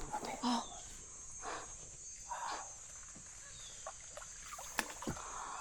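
A steady high drone of rainforest insects, with several short bursts of rustling leaves and branches and a sharp crack near the end, from capuchin monkeys moving and jumping through the trees.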